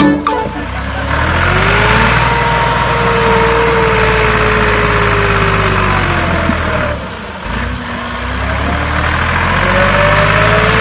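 A small motor running under load, with a whine that rises in pitch, drops away about seven seconds in, then rises again.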